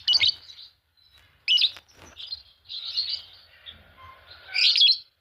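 A pair of Fischer's lovebirds chirping: sharp, high-pitched chirps in short bursts with brief pauses, softer chattering in between, and a loud cluster of chirps near the end.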